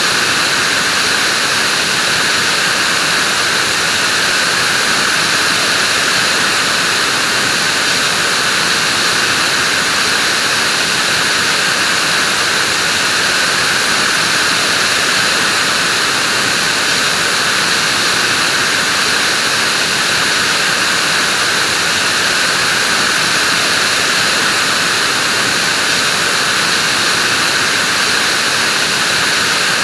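Vacuum cleaner running steadily: a constant, even hiss and whoosh of the motor and airflow, with no change in pitch or level.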